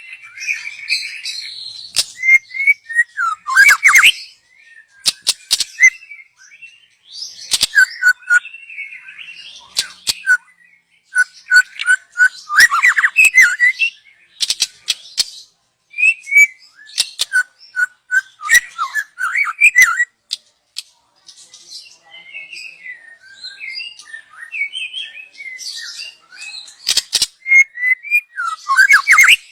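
Young white-rumped shama singing in bursts of varied whistled phrases mixed with sharp clicking notes, with short pauses between phrases and a softer passage a little past the middle.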